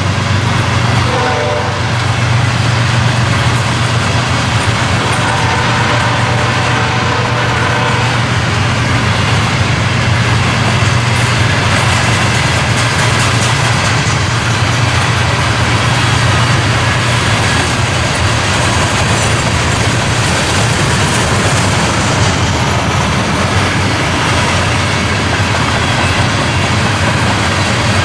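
Freight train of covered hopper cars rolling past, a steady loud rumble of steel wheels on the rails.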